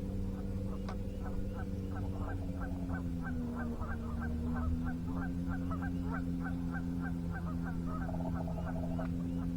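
Geese honking in a quick run of short calls, about three or four a second, over a steady low hum.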